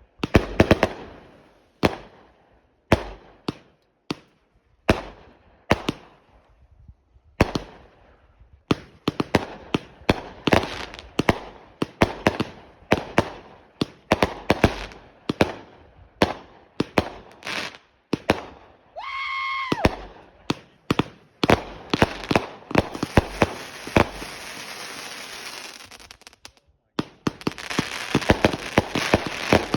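Consumer fireworks going off: a run of sharp bangs about once a second, growing more frequent. About twenty seconds in comes a brief rising whistle, then dense crackling with rapid pops.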